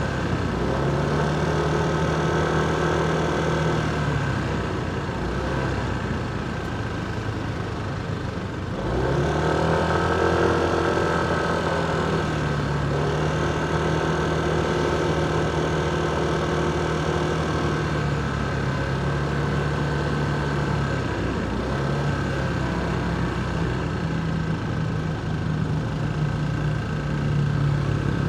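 Motorcycle engine running under way, its pitch stepping up and down with throttle and gear changes; it dips and then picks up strongly about nine seconds in.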